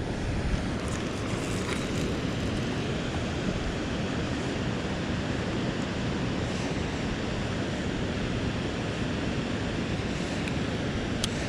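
Steady wind noise buffeting the microphone out on open water.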